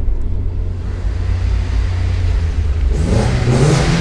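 Steady low engine and road rumble. About three seconds in, an engine starts to accelerate and its pitch rises.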